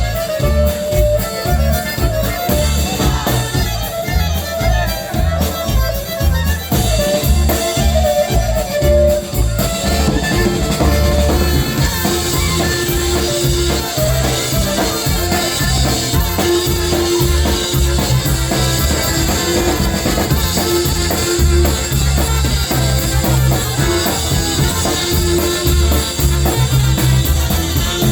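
Polka band playing live over a steady drum-kit beat: a melody line wanders for about the first nine seconds, then a repeated held note carries on over the beat.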